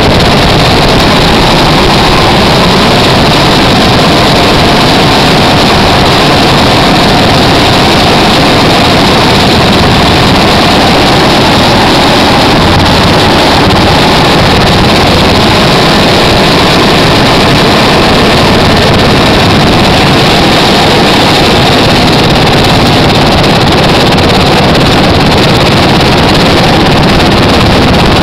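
Military helicopter engine and rotor noise, loud and steady throughout, overloading the microphone.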